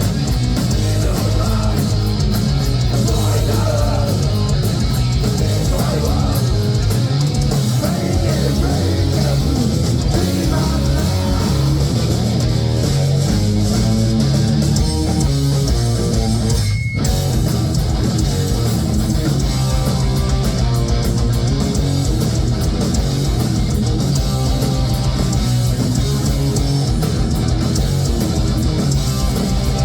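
Heavy metal band playing live: distorted electric guitars, bass and drums, loud and continuous, with a split-second break in the sound about seventeen seconds in.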